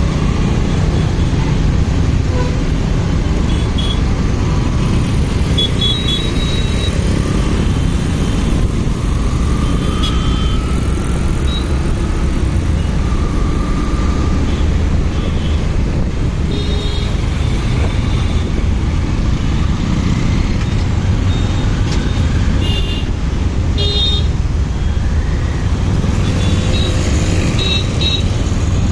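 Motorcycle riding through traffic: a steady low rumble of engine and road noise, with several short horn toots at intervals.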